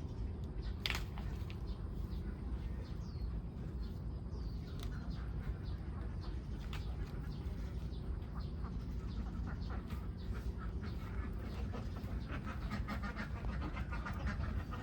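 A flock of domestic ducks quacking over a steady low rumble, the quacking growing busier near the end.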